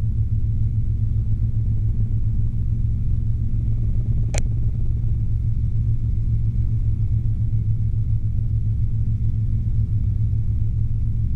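Robinson R22 helicopter in steady cruise flight, heard from inside the cabin: a constant low drone of engine and rotors. A single brief click sounds about four seconds in.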